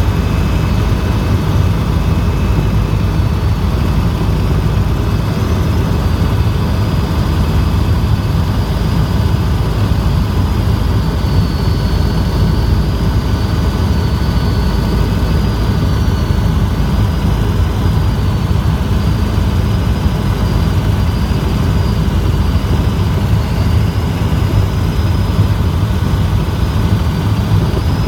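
Helicopter in flight: steady, loud engine and rotor noise, a heavy low drone with a few thin, high, even whines over it.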